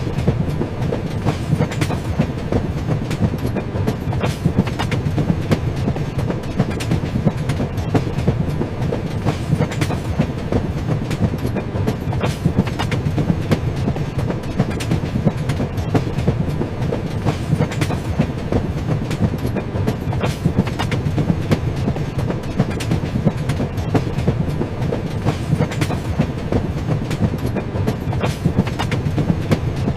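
Train running along the track: a steady rumble with a constant patter of wheel clicks over the rail joints.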